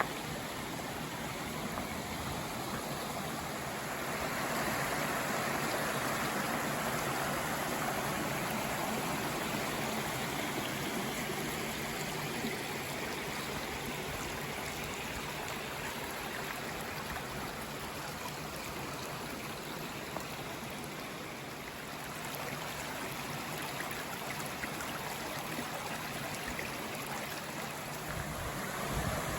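Running water of a stream, a steady rushing that grows louder about four seconds in and eases off again after about twenty seconds.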